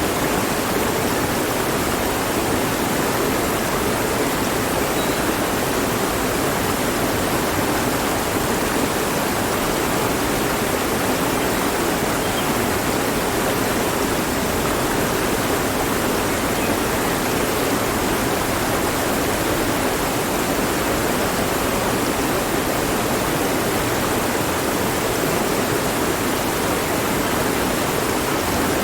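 Mountain stream flowing over rocks: a steady, even rush of water that doesn't change.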